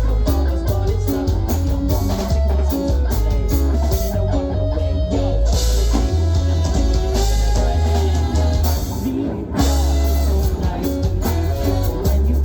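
Live rock band playing an instrumental passage of a song on guitar and drum kit, with a brief drop in the sound about nine and a half seconds in before the full band comes back in.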